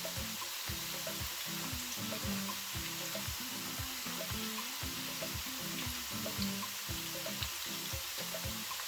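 Thin slices of green plantain frying in hot oil, a steady sizzle, under background music with a steady beat.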